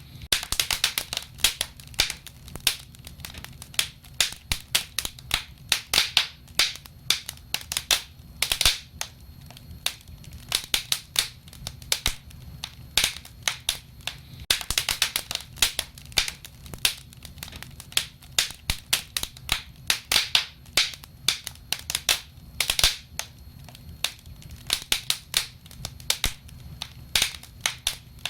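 Wood fire crackling, with irregular sharp pops and snaps, some in quick clusters, over a low steady rumble of the flames.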